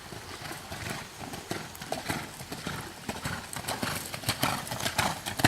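A horse's hoofbeats on arena footing, growing louder as it comes closer, with the heaviest thud near the end.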